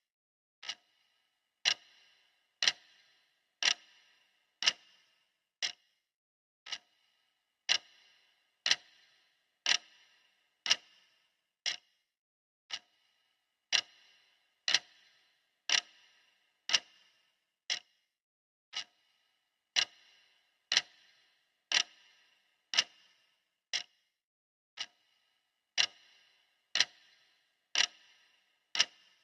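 Clock ticking steadily, about one tick a second, each tick a sharp click with a brief ring; some ticks are louder than others.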